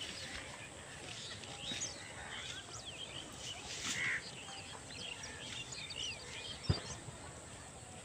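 Many birds chirping, with short overlapping calls scattered throughout. A single thump comes about two-thirds of the way through.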